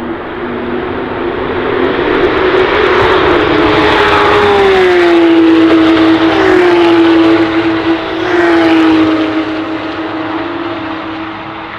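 Loud sports car engine accelerating hard, its pitch dropping several times, about four, six and eight seconds in. It grows louder to a peak mid-way, then fades as the car moves off.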